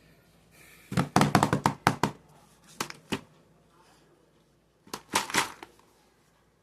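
Dukes Nibbles biscuit packet being handled and unwrapped, its wrapper crinkling and crackling in three bursts of sharp crackles.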